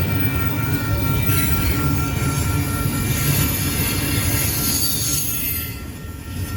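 A train rolling past close by: a steady low rumble of the wheels on the rails, with a thin high squeal and hiss from the wheels. The sound eases off about five and a half seconds in.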